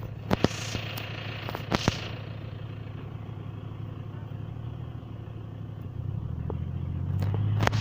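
Car engine running at a low idle, then picking up revs and getting louder from about six seconds in. A few sharp knocks in the first two seconds.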